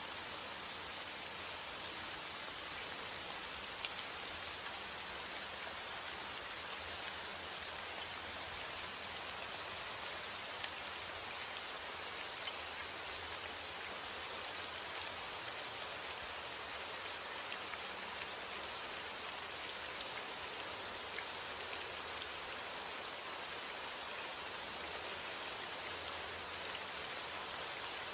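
Steady heavy rainfall, an even hiss with small individual drop ticks scattered through it.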